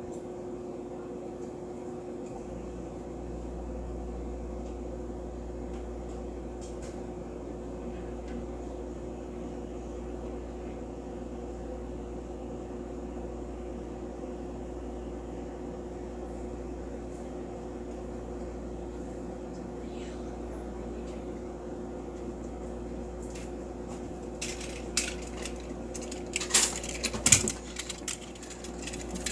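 A steady appliance-like hum, then near the end a run of clicks and clatter of small hard objects knocking together, most likely toy train coaches being handled and set down.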